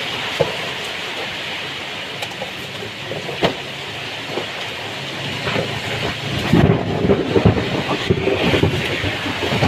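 Heavy rain falling steadily, with a few sharp taps of drops. From about two-thirds of the way in, a louder, uneven low rumble joins it.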